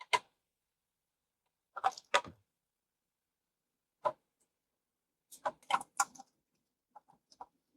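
Scattered sharp clicks and taps of a screwdriver and hand tools working on the casing of an inverter air conditioner's outdoor circuit board while its screws are taken out. They come singly, then as a pair, then a quick cluster of four, with a few faint ones near the end.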